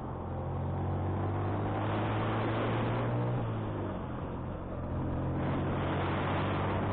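Motorcycle engine running under load uphill, with wind rushing over the microphone. The engine note eases off about three and a half seconds in, then picks up again about a second later.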